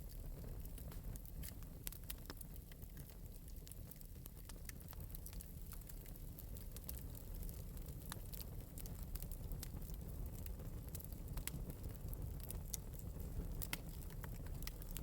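Fire in an open metal fireplace crackling, with frequent small irregular pops over a low steady rumble.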